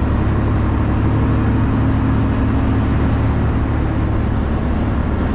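Detroit Series 60 12.7-litre diesel in a straight-piped Freightliner running steadily on the road, heard inside the cab as a loud, even drone. It is pretty loud inside the cab because the exhaust has broken at the 90-degree elbow behind the cab.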